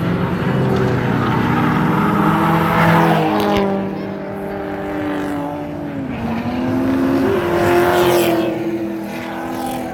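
Drift cars' engines revving hard on track, several engine notes at once whose pitch rises and falls as the cars are thrown through the corners. The sound swells louder about 3 seconds and 8 seconds in as cars pass.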